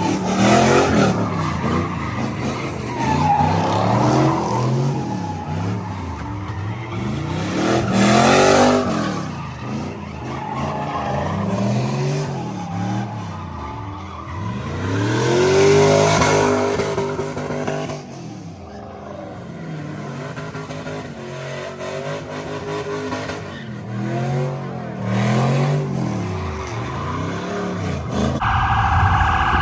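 Car engines revving hard again and again, each rev rising and falling in pitch, with tires squealing. A steady siren-like tone starts near the end.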